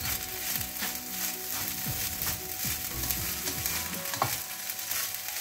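Fried rice sizzling in a nonstick wok while a spatula stirs and turns it, with repeated short scrapes of the spatula against the pan.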